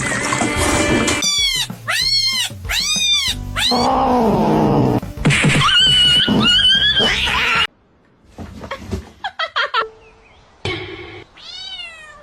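A cat meowing repeatedly: a run of short calls that rise and fall in pitch, then a quieter stretch and another meow near the end.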